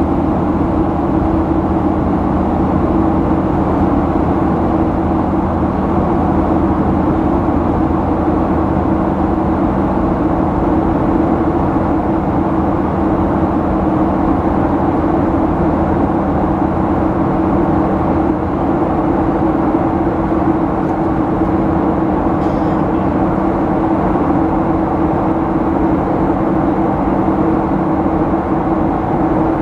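Boeing 737-800's CFM56 jet engines and airflow heard inside the passenger cabin: a steady, loud drone with a few constant low hums, holding level throughout.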